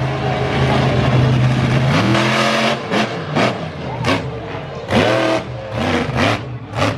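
Monster truck engine holding a steady rumble, then rising and blipping the throttle in a string of sharp revs, about two a second.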